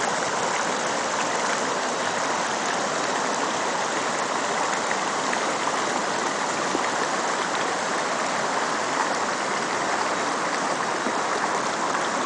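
Mountain stream running: a steady, even rush of flowing water over rocks.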